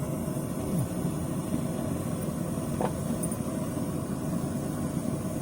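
Steady low background rumble, with one faint brief click about three seconds in.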